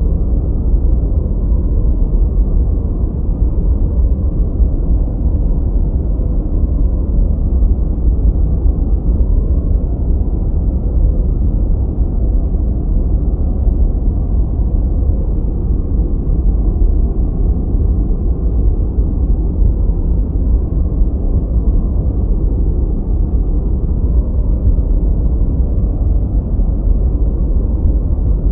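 Continuous relaxation noise sold as 'white noise': a steady, deep rushing sound with most of its weight in the bass and no bright hiss, more like brown noise than true white noise.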